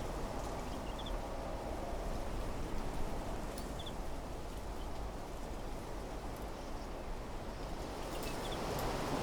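Wind blowing steadily through trees, a continuous low rush that swells a little near the end. A small bird gives short double chirps a few times.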